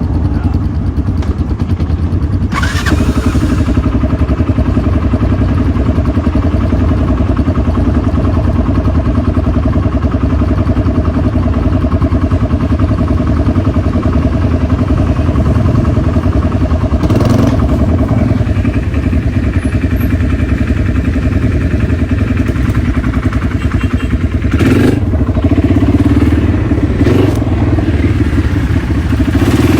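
Dirt bike engine running at a fairly steady pitch, loud and close. A few brief noisy bursts come through it.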